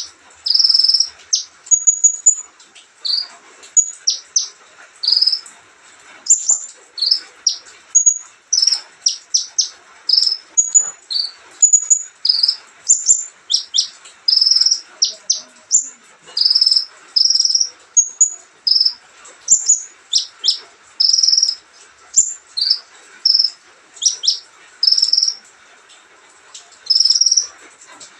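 Olive-backed sunbird singing: a rapid, continuous string of high, thin chirps and short trills, many sliding steeply downward, broken by brief pauses.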